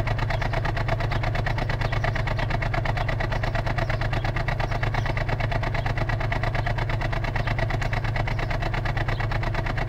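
2004 Ford Falcon XR6's 4.0-litre inline-six idling after a cold start with a misfire. The misfire shows only on cold starts, for about 30 to 60 seconds, and persists despite new coils, plugs and inlet and exhaust gaskets.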